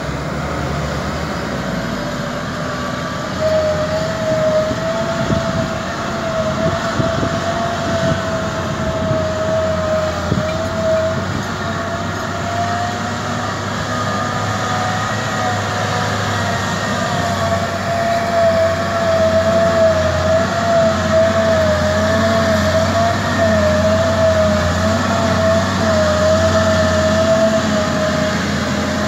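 Kobelco SK200 excavator working, its diesel engine running steadily under load. A few seconds in, a high whine joins it and holds, wavering slightly in pitch.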